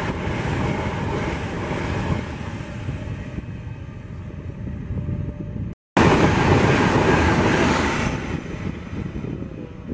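High-speed electric passenger train passing at speed on the line below: a loud rush of wheels and air that fades as the train runs away. After an edit about six seconds in, another loud stretch of passing-train rushing starts and fades off again.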